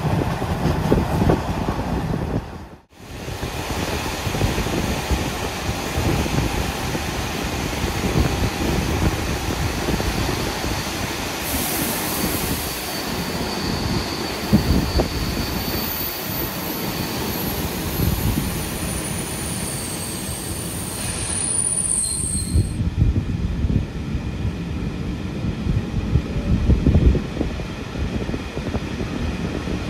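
Passenger coach running on the rails: a steady rumble of wheels on track. A high-pitched wheel squeal sets in about twelve seconds in and fades out some ten seconds later.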